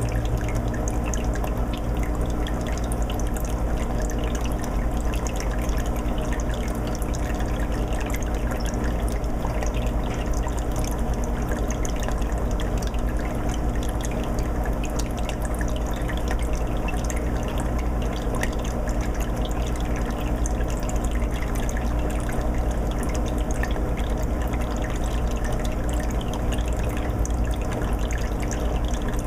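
Aquarium water filter running in a 20-gallon fish tank: water splashing and trickling steadily, over a low steady hum.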